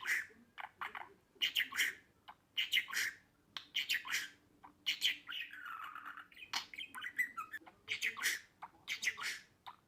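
Budgerigar chirping and chattering: clusters of short, sharp squawky calls throughout, with one longer, lower warbled call about six seconds in.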